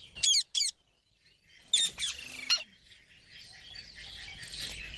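Pet green parakeet calling: two quick, sharp calls right at the start and two more about two seconds in, then softer chattering near the end.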